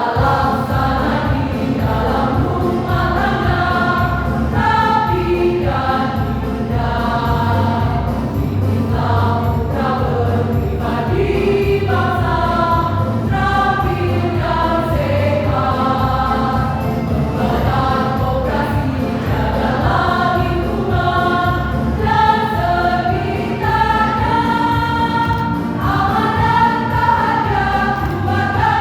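A choir singing a song in parts, with instrumental accompaniment underneath.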